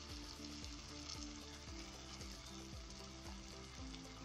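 Onion-tomato masala sizzling steadily as it fries in oil in a pan, fully cooked with the oil separating out. Soft background music plays under it.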